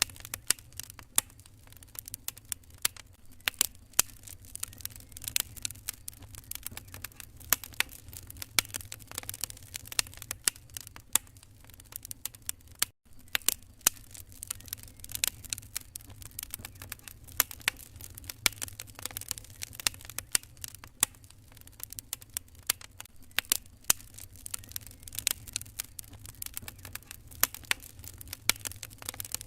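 Wood fire crackling and popping in a fireplace, a dense run of irregular sharp snaps over a steady low rumble. The sound cuts out for an instant about halfway through.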